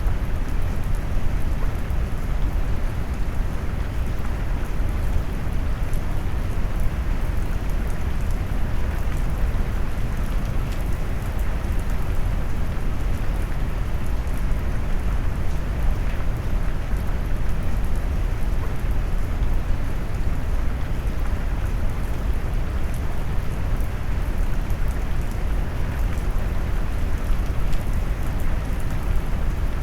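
Steady rain mixed with deep brown noise: a constant low rumble with faint patter of drops on top, unchanging throughout.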